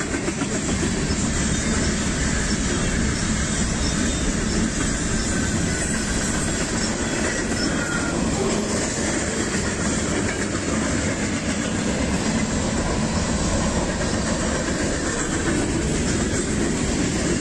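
Long freight train passing close by, loud and steady, its cars and wheels running on the rails without a break.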